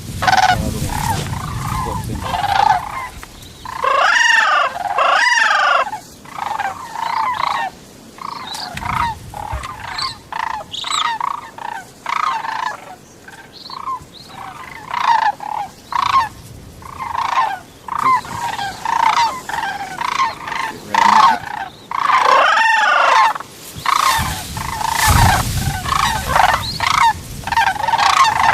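A large flock of geese calling, many high-pitched honks overlapping without a break, with louder calls about four seconds in and again past twenty seconds. Low rumbling noise comes in near the start and again near the end.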